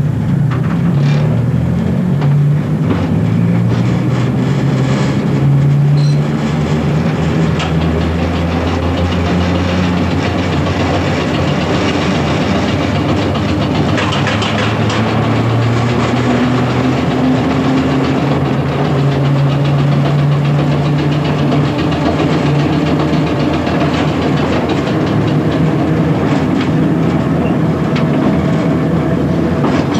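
1927 Standard stock electric tube train running on the line, heard from the driver's cab: a steady motor hum that shifts in pitch, over loud running noise, with scattered clicks from the wheels.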